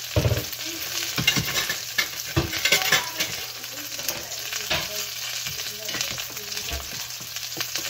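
Chicken pieces, broccoli and sesame seeds frying in oil in a pan: a steady crackling sizzle, with a few sharp knocks of a spoon and ladle against a saucepan.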